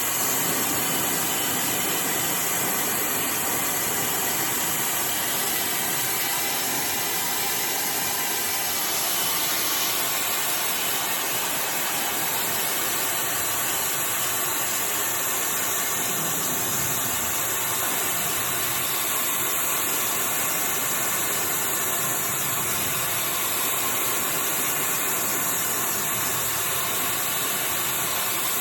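iDryer AI Pro Style hair dryer running steadily, blowing a rush of air with a high-pitched whine on top.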